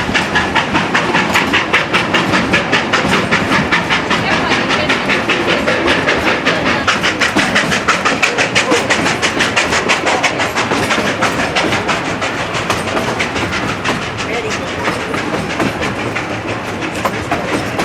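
Steam locomotive #40, a 2-8-0, working uphill with a fast, even beat of exhaust strokes, about five a second, growing fainter over the last few seconds.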